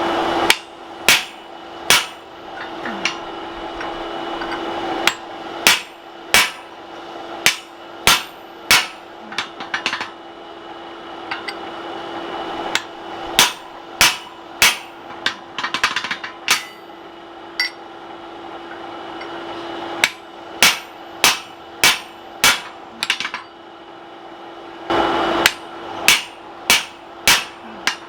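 Hammer blows on a steel punch driving the eye through a hot mild-steel axe blank: sharp ringing metal strikes at an uneven pace, roughly one a second, with quicker runs of lighter taps in places.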